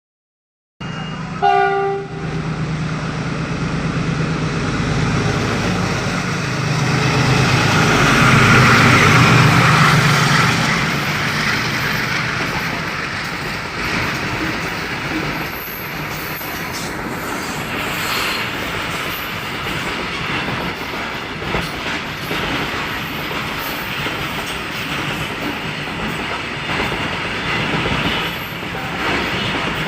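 Train running on the rails, with a short horn blast about a second and a half in. The noise swells to its loudest around eight to ten seconds, then settles to a steady rumble.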